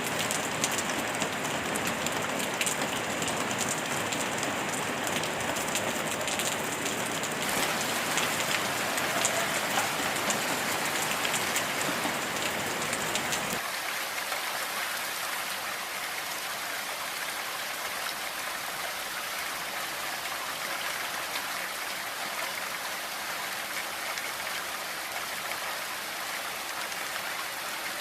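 Steady rain falling as an even hiss with a patter of drops. About 14 seconds in the sound changes abruptly: the low rumble drops away and the rain turns thinner and hissier.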